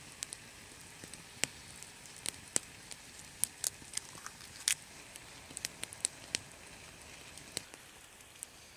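Spruce-wood campfire crackling: irregular sharp pops over a faint steady hiss.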